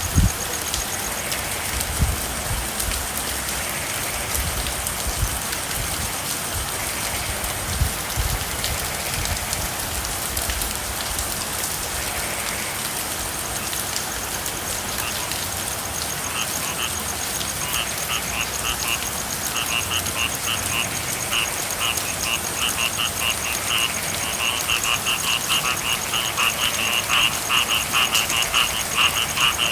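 Steady rain, with frogs calling in rapid pulsing trains that come in about halfway through and grow louder toward the end. A few low thuds sound in the first several seconds.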